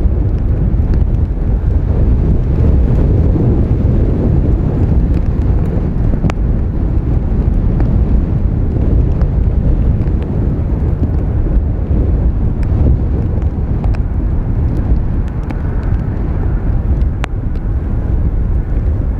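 Strong gusty wind buffeting the microphone, a loud steady rumble that covers everything else, with a few sharp ticks now and then.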